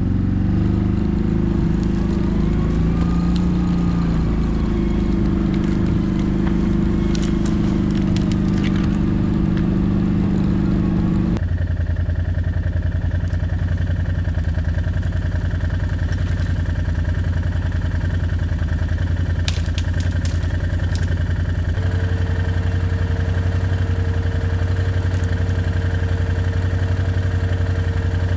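A vehicle engine running steadily at constant speed. The sound changes abruptly about eleven seconds in, and a steady whine joins it about twenty-two seconds in.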